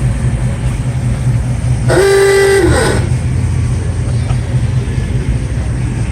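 A vehicle horn sounds once, a steady pitched blare lasting about a second, about two seconds in, over a steady low rumble.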